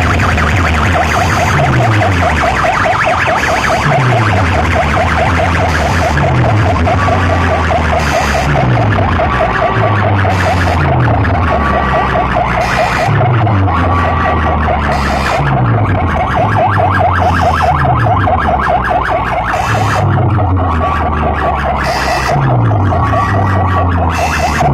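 Loud DJ competition track played through a large sound-box system. A fast-warbling siren-like tone runs over deep bass drops that slide down in pitch about every two seconds.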